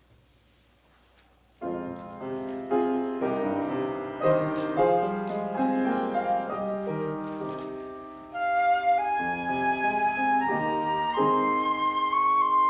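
Instrumental music begins after a short hush: a piano starts playing chords about two seconds in, and a flute melody enters over it about eight seconds in.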